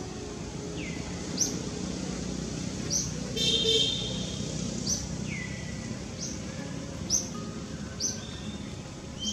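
Outdoor ambience of birds chirping: short, high, falling chirps about once a second, with a couple of lower downward whistles, over a steady hiss. About three and a half seconds in comes a brief, louder honk-like tone.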